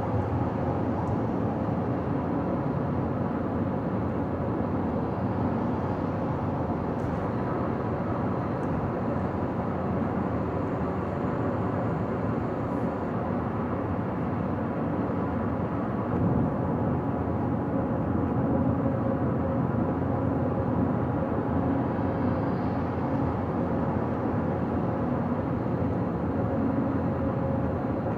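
Car driving at highway speed: steady road and tyre noise with a faint, even hum.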